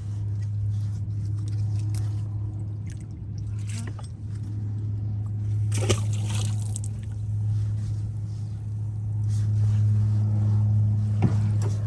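Water splashing and dripping as a magnet-fishing rope is worked from a kayak, with a sharp knock and a second of splashing about six seconds in and a smaller knock near the end. A steady low hum runs underneath.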